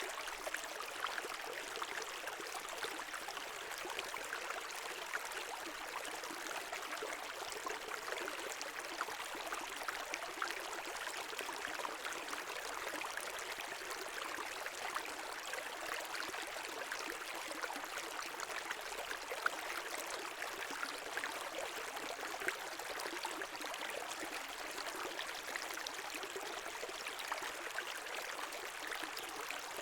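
A brook running over stones, a steady rush of water with many small splashes and trickles.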